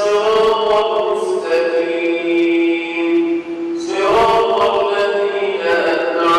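Man's voice chanting Quran recitation in the prayer, in the melodic tajweed style, stretching syllables into long held notes with two breaks for breath.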